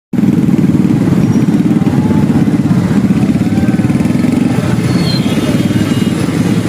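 A small motorcycle-type engine running steadily, a dense low pulsing rumble, on a rain-soaked road. A brief high tone sounds about five seconds in.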